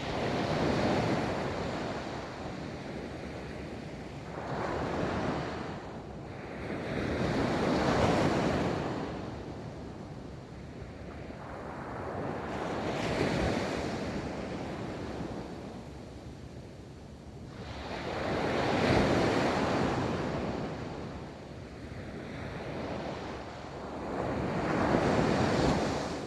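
Ocean waves breaking and rolling up a beach, surging and receding about every five to six seconds in a steady rhythm, with some wind on the microphone.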